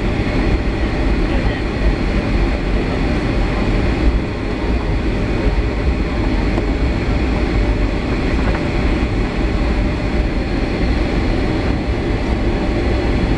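Steady, loud cabin rumble of a Boeing 757-300 as heard from inside, the engines and airframe making a dense low roar that holds even throughout.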